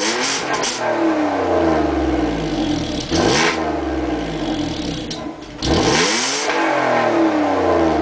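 Citroen C5 3.0 V6 petrol engine breathing through a used exhaust from the 2.2 HDi diesel model, revved in short blips: the revs sink back at first, flick up sharply about three seconds in, and climb again about five and a half seconds in before dropping slowly.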